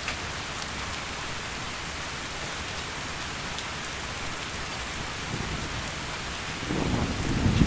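Heavy rain falling steadily, with a low rumble of thunder swelling in over the last two seconds or so.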